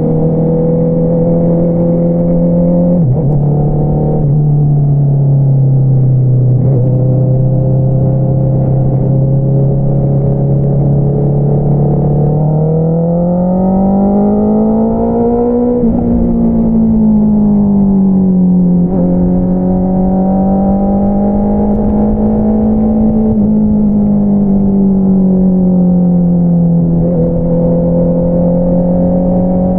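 2022 Honda CBR650R inline-four engine running through an Akrapovič single-outlet exhaust while riding. The revs drop sharply about three seconds in and then hold steady. They climb midway and fall back, with smaller rises and dips after that.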